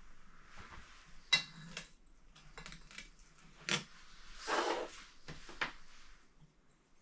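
Hard objects being handled: a few sharp clinks and knocks, with a short scrape about four and a half seconds in.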